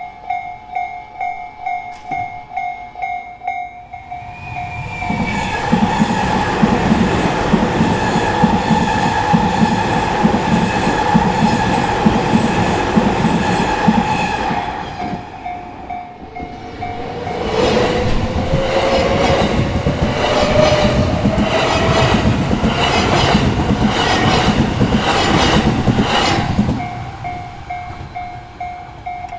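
Japanese level-crossing warning bell ringing at about two strikes a second, while two electric trains of the Tobu Isesaki Line run over the crossing one after the other and drown it out. The second train's motor whine rises steadily in pitch and its wheels clack rhythmically over the rail joints. The bell is heard again between the trains and near the end.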